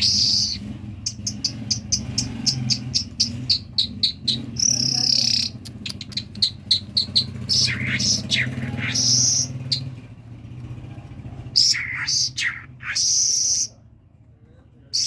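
A thrush singing: a fast run of sharp clicks and chirps mixed with short high whistles and falling notes, in phrases broken by pauses, with a quieter gap near the end. A steady low hum runs underneath for most of it.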